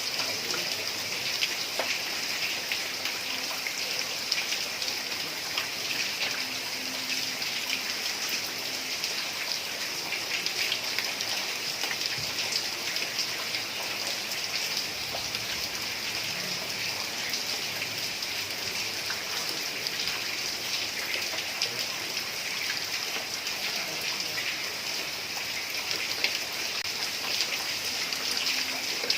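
Heavy rain falling steadily on a tiled roof: an even hiss of countless drop hits that does not rise or fall.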